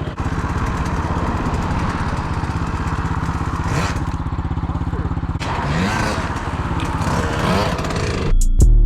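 Dirt bike engine running steadily, its firing pulses even and unchanging. A hip-hop beat with heavy bass cuts in near the end.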